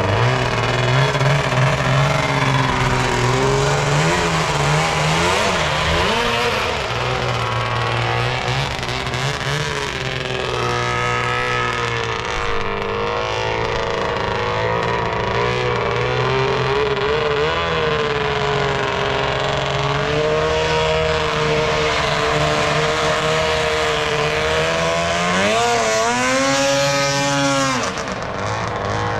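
Homemade jet boat's 700cc Arctic Cat twin-cylinder two-stroke engine running and revving up and down, climbing sharply in revs near the end before dropping off suddenly.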